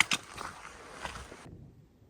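A hiker's footsteps on a mountain trail, a few steps over a hissy background that cuts off suddenly about one and a half seconds in.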